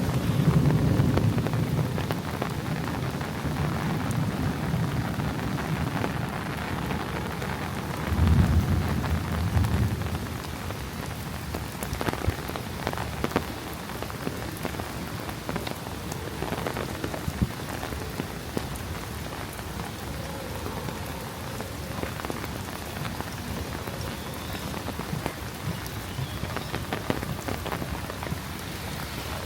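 Heavy rain falling in a thunderstorm, with thunder rumbling in the first few seconds and a louder peal about eight seconds in. After that, steady rain with many close drop taps.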